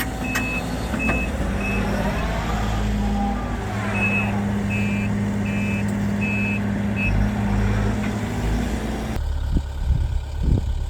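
A heavy machine's backup alarm beeping about every 0.7 s, in two runs with a pause between, over a steady diesel engine hum. The sound changes abruptly near the end.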